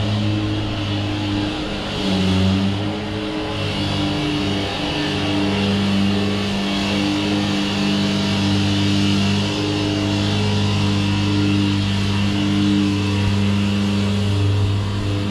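Motorcycle engine running at a steady road speed, its note dipping and picking back up briefly about two to three seconds in.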